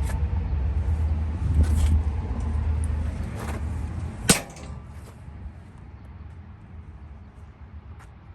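Metal rear radiator cover of a Bobcat T740 track skid steer being handled, with scattered knocks and rattles, then one sharp metal bang about four seconds in.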